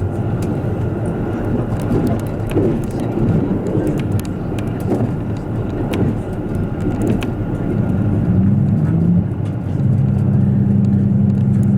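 KiHa 85 series diesel express train running, heard from on board: a steady low rumble of engine and wheels with scattered clicks and rattles. About eight seconds in the engine note rises, then settles into a steady drone.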